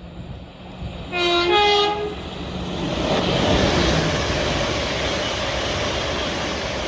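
Train sounding its two-tone horn about a second in, a short low note then a higher one, then running past at speed with a loud, steady rush of wheel and air noise.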